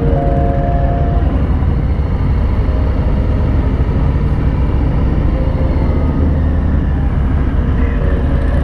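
Harley-Davidson Street Bob's V-twin engine running steadily while riding, a loud, even low rumble.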